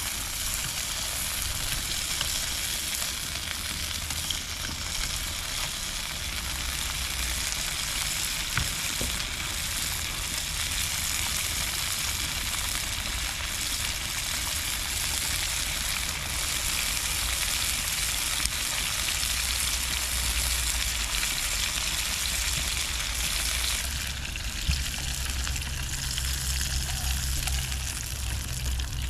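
Food sizzling in a pan, a steady hiss with a low rumble underneath; the hiss eases a little about 24 seconds in.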